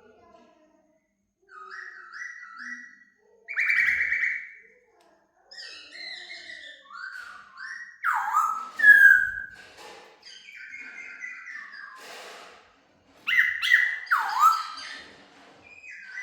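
Laughingthrush singing a string of loud whistled phrases with short pauses between them. Some phrases are quick runs of stepped notes, others slide sharply down in pitch; the loudest come about halfway through and again near the end.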